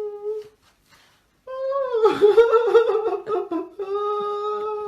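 A drawn-out, humming-like vocal tone held on one pitch, breaking off after about half a second. About a second and a half in it comes back louder and wavering up and down for about two seconds, then settles into a steady held tone again.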